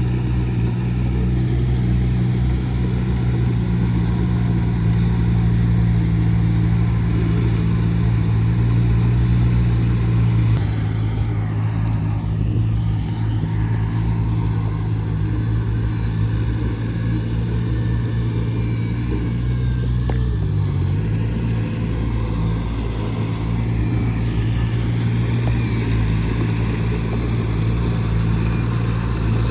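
Heavy earthmoving machine's diesel engine running steadily with a low drone. The drone eases slightly about ten seconds in and dips briefly around twenty seconds in.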